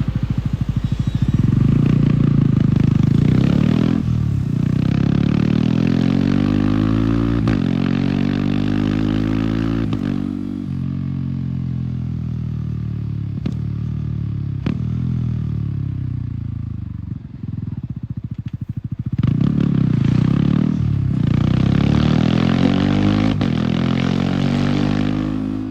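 Yamaha R15 single-cylinder motorcycle with an aftermarket MTG exhaust, accelerating hard through the gears: the engine note rises, then breaks off sharply at each quickshifted upshift. In the middle it eases off and runs lower, and near the end it pulls up through the gears again with more quick shifts.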